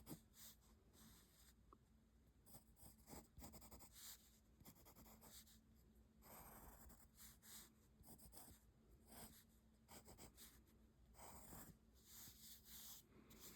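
Pencil drawing on paper: faint, intermittent scratching strokes, some short and quick, a few drawn out over about a second.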